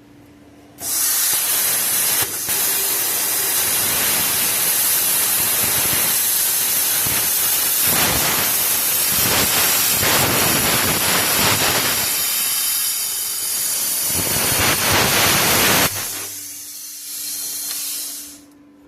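Bestarc plasma cutter cutting through a truck's exhaust pipe: a loud, steady hiss that starts abruptly about a second in and runs for about fifteen seconds. It then drops to a quieter air hiss for about two seconds before stopping.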